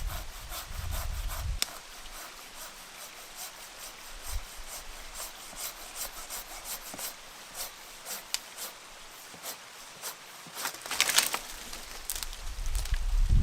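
A long run of short, irregular scraping strokes, like hand work on wood. Wind rumbles on the microphone in the first second or so and again at the end.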